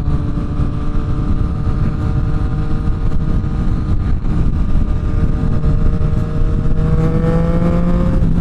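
Triumph Street Triple RS 765cc three-cylinder engine running under way at a steady speed, its note rising slowly in the last couple of seconds as the bike pulls, over heavy wind rush.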